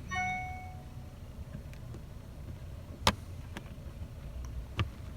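Sharp mechanical clicks as a rear seatback in a car's cargo area is released and folded: one loud click about three seconds in and another near the end, with a few fainter ticks between, over a steady low hum. A short ringing tone sounds at the very start.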